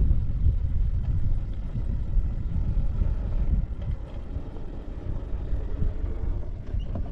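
Peugeot 405 sedan's engine idling just after starting, a low steady rumble, with wind buffeting the microphone.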